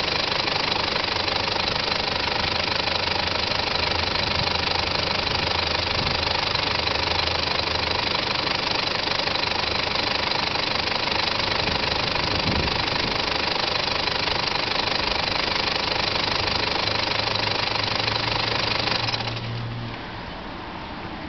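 Mitsubishi 4M40 2.8-litre turbo diesel in a Pajero idling steadily with diesel clatter, then cutting off abruptly near the end as the engine is switched off.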